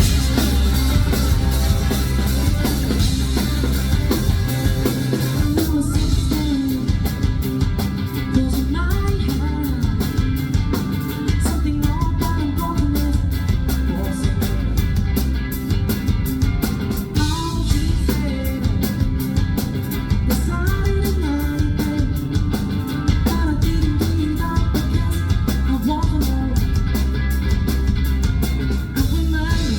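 Rock band playing live, with a lead vocal over electric guitar, bass and a drum kit.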